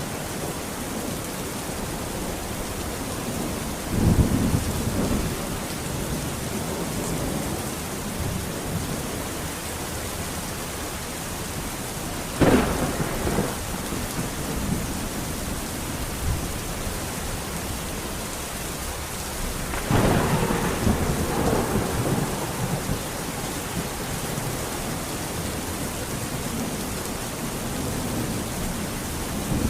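Steady rain with three thunderclaps: a low rumble about four seconds in, a sharp crack trailing into a rumble near the middle, and a longer rolling rumble about two-thirds of the way through.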